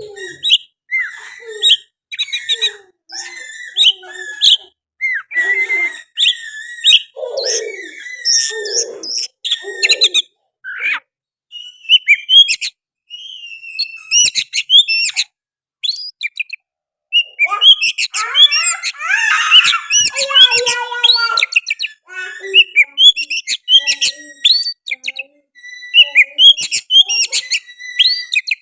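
Oriental magpie-robin (kacer) singing a loud, unbroken, varied song of whistles, chirps and rapid trills, in the fast, continuous 'mbeset' style. Its song is filled out with learned sooty-headed bulbul (kutilang) phrases. About two-thirds of the way through, the notes crowd into a dense tangle.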